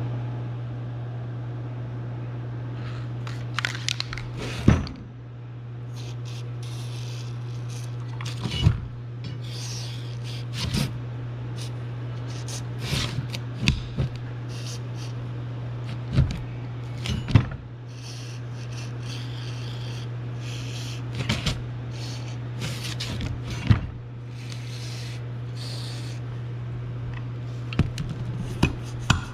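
Metal parts of a golf cart's drive clutch clinking, knocking and scraping as they are handled and worked apart by hand, with scattered sharp knocks, over a steady low hum.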